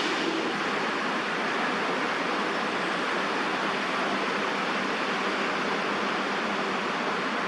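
Steady rushing background noise of distant city traffic, with no distinct events.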